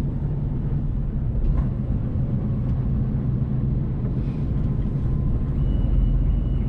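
An HGV lorry's diesel engine drones steadily, heard from inside the cab while driving. A faint steady high tone joins about five and a half seconds in.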